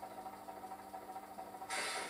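H0 model locomotive running with a sound decoder playing through its small speaker: a steady mechanical hum and whine, then a short burst of hiss near the end.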